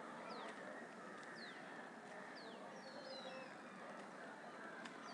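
Wild birds calling: three short high whistles, each falling in pitch, about a second apart, followed a little after by a quick run of descending notes, over steady outdoor background noise.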